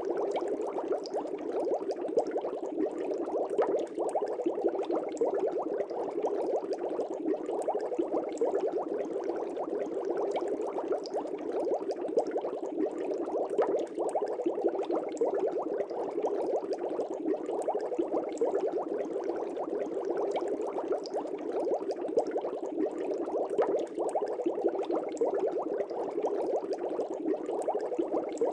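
Air bubbles streaming up through fish-tank water: a dense, steady bubbling with many small pops and crackles.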